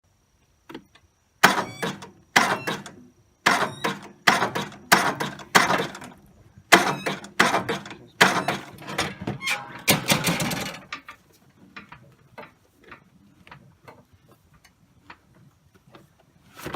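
A lawn tractor making a series of loud, irregular clanks with a squeal in some of them, about one every second, then only faint clicks near the end. This is the fault its owner is asking about.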